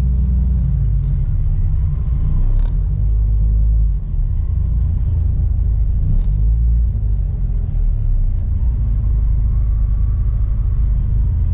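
Car engine running at a crawl, a steady deep rumble heard from inside the car.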